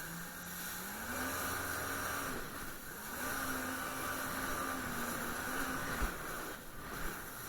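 Jet ski engine running under way, its pitch rising and falling twice as the throttle is opened and eased, over a steady rush of wind and water.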